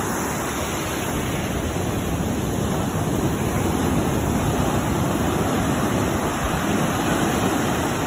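Steady rushing noise of ocean surf at the beach, mixed with wind on the microphone.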